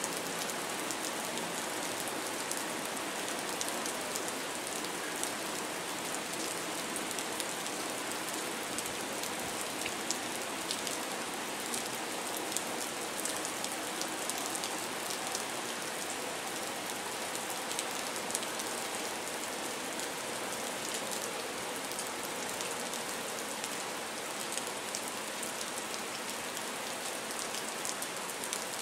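Steady rain, an even hiss sprinkled with the small ticks of individual drops striking close by.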